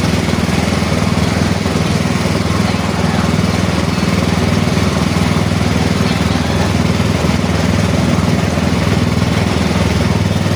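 A small engine running steadily, a constant low drone.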